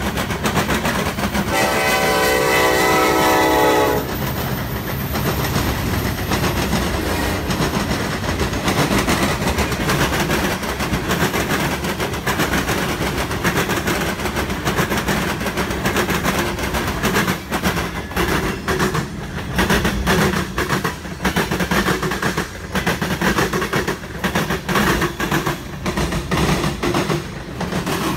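Freight train horn sounding one long chord blast about two seconds in, then the train passing close by: a steady rumble with the clickety-clack of wheels over rail joints.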